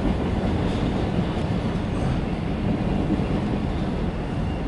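Freight train of empty autorack cars rolling past: a steady noise of wheels on rail.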